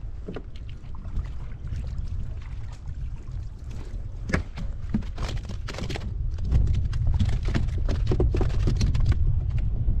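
Wind buffeting the microphone in a deep steady rumble that gets stronger about two-thirds of the way through, with a run of scattered light knocks and clicks in the middle.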